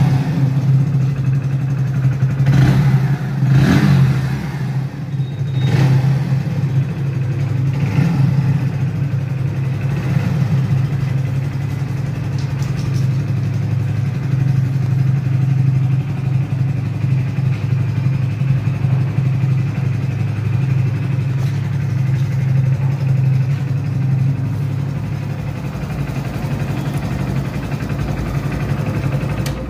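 Hero Splendor Plus's 100cc single-cylinder four-stroke engine idling steadily after being started, with a few short throttle blips in about the first ten seconds.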